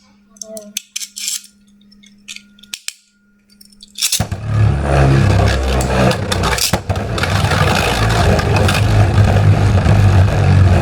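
A few faint clicks, then about four seconds in, Beyblade spinning tops (a 3D-printed Mystic Ultraus against Goddess Valkyrie) are launched and spin and clash in a plastic stadium. The battle is a loud, continuous scraping rattle with a low rumble and repeated sharp hits.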